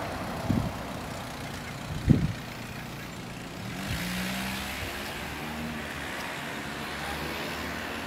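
A motor vehicle passing at a distance: an engine hum and tyre hiss swell about four seconds in and slowly fade. Two low thumps come before it, about half a second and two seconds in.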